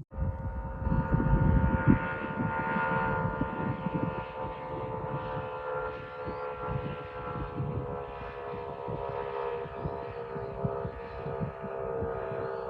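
An engine drones steadily at an even pitch, with wind rumbling on the microphone, heaviest in the first couple of seconds.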